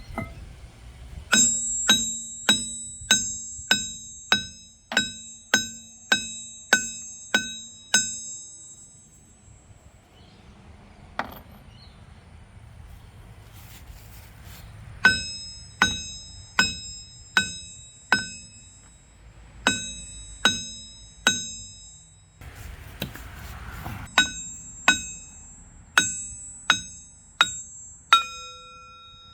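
Hammer blows on steel, each one ringing like a bell, in runs of about two strikes a second: a dozen, then a single blow, then runs of six, three and eight.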